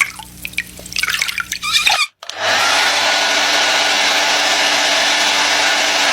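Short high chirps over a low hum, then, after a brief break about two seconds in, a loud, steady rushing noise.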